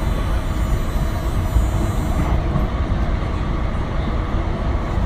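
Steady low rumble and running noise of a moving train, heard from on board.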